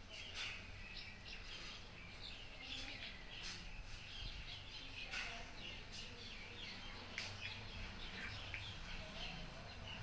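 Small birds chirping and calling, many short, high chirps following one another throughout, over a low background rumble.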